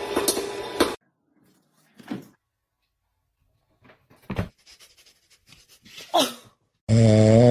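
A dog's sounds: scattered short clicks and breaths, a brief falling whine about six seconds in, then a loud, low, pitched snore-like sound lasting about a second near the end. Before that, a dense clicky sound from another clip cuts off about a second in.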